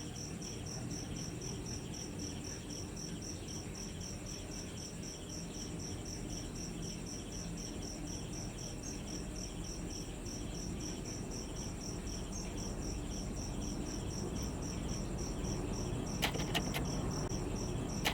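An insect chirping steadily, a high pulse repeating about three to four times a second, over a low rumble, with a few sharp clicks near the end.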